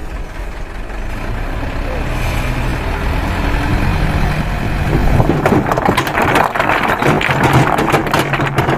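Dump truck's diesel engine running and growing louder, then a load of river stones tumbling and clattering out of the tipped bed from about five seconds in.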